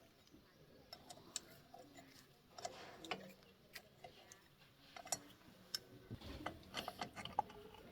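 Scattered light clicks and taps at irregular intervals, about a dozen, a little busier near the end.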